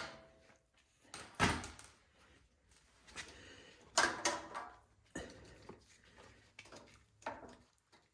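Scattered knocks and clatter of tools and metal parts being handled while the snowblower's carburetor mounting bolts come out, four or so short bumps a second or more apart.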